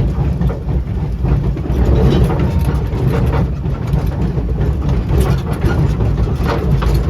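1927 Vulcan 0-4-0T narrow-gauge steam locomotive running under way, heard from its cab: a steady low rumble with irregular sharper knocks every second or so.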